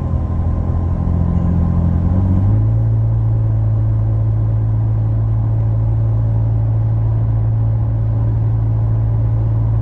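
Ford F-150 3.5 EcoBoost twin-turbo V6 with an AWE 0FG exhaust and a Borla resonator, heard from inside the cab while cruising. It makes a steady low exhaust drone whose pitch steps about two and a half seconds in, then holds.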